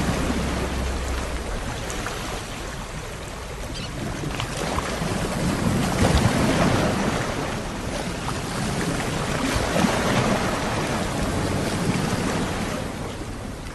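Ocean waves surging and washing back. The wash swells to its loudest about halfway through and again a few seconds later, then eases near the end.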